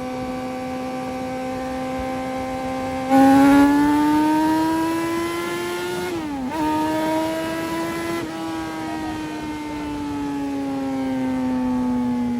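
Yamaha FZ6R's inline-four engine running at high revs. About three seconds in it gets louder and the pitch climbs, dips sharply just after six seconds, climbs again, then sinks slowly from about eight seconds on.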